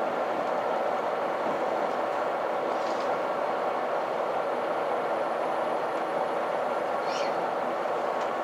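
KiHa 261 series diesel express train heard from inside the passenger car, running slowly through a station with a steady rumble of engine and running gear. Two brief faint high squeaks come about three seconds in and again about seven seconds in.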